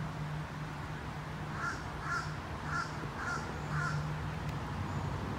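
A bird calling five times in a row, about half a second apart, over a steady low hum.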